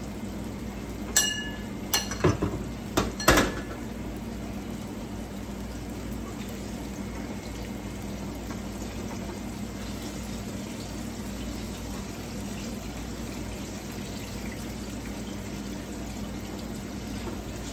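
A few sharp clinks and knocks of metal kitchenware in the first few seconds, the first one ringing briefly. Then a steady sizzle of ripe plantain slices frying in oil in a skillet, turned now and then with a fork.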